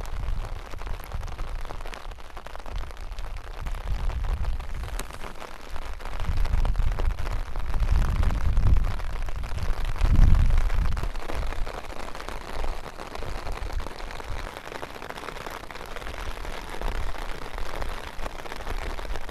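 Rain pattering on an umbrella, a haze of fine drop hits. Wind gusts rumble on the microphone and are the loudest part, swelling from about six seconds in to a peak near ten seconds.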